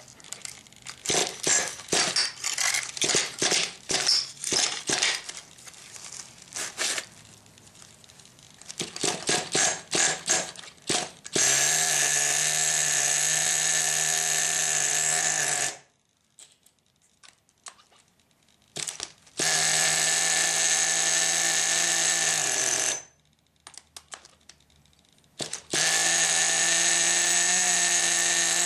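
Team Associated GT2's nitro engine being pull-started with quick runs of tugs on the recoil starter, then catching and running at a steady high buzz for a few seconds at a time, cutting out twice and firing up again near the end. It is a first start after a year of storage with a fresh glow plug.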